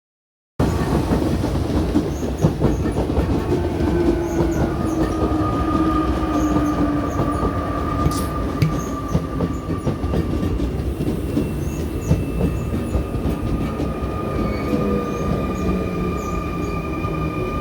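RER C electric train running on the rails: a loud, steady rumble with wheel squeal in high tones and rail clatter. It starts abruptly about half a second in.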